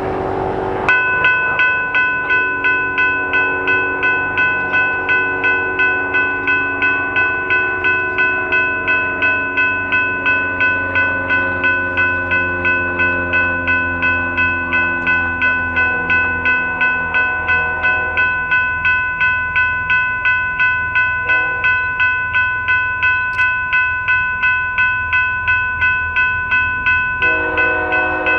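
Railroad grade-crossing warning bell ringing steadily, about two to three strikes a second, as a BNSF freight train passes. Under it a train horn chord slowly drops in pitch and fades, then sounds again near the end.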